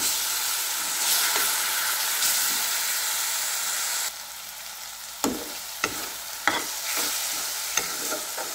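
Tomato puree and chopped vegetables sizzling in hot oil in an aluminium kadhai while a steel spoon stirs them. The sizzle drops a little about four seconds in. The spoon then knocks and scrapes against the pan several times.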